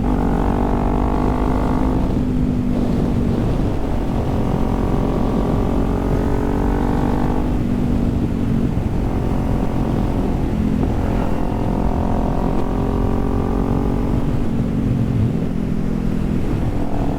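Kawasaki Z400 parallel-twin engine running under way at road speed, its note shifting in pitch a few times as the revs change, over steady low wind noise on the microphone.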